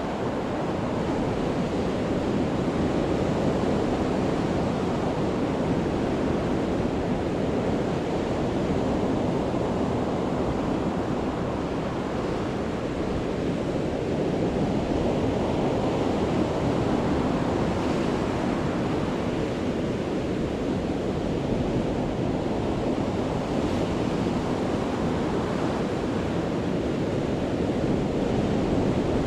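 Sea waves crashing on a beach in a continuous, dense wash that swells and eases every few seconds.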